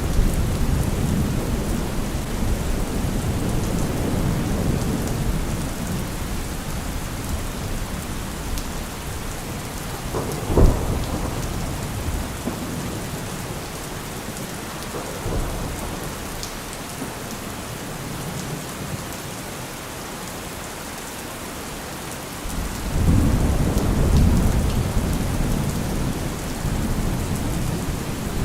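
Heavy rain falling steadily, with a deep low rumble underneath that dies away through the middle and swells back abruptly late on. There is one short sharp knock about a third of the way in.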